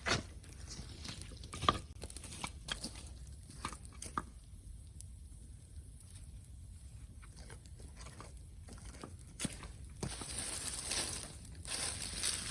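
Wood bonfire crackling, with scattered sharp snaps and pops, one louder snap about two seconds in. About ten seconds in the sound thickens into a denser crackling rush.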